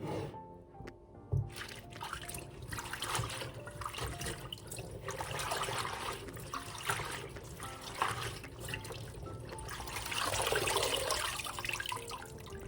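Water running and splashing unevenly, swelling twice, with a few small knocks and soft background music underneath.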